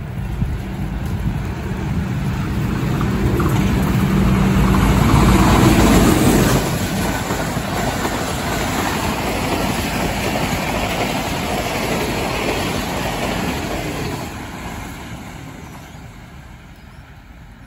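Pakistan Railways express train passing at high speed. The diesel locomotive approaches with a steady engine drone that is loudest about six seconds in, then the coaches rush past on the rails, and the sound fades as the train moves away.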